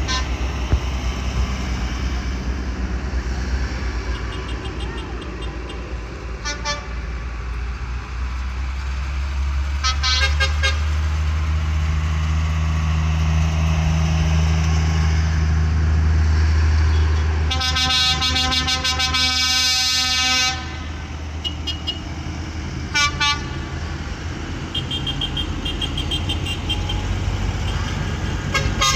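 Tractor engines running past with a low, steady drone that swells in the middle, punctuated by several short horn toots and one long horn blast of about three seconds two-thirds of the way through.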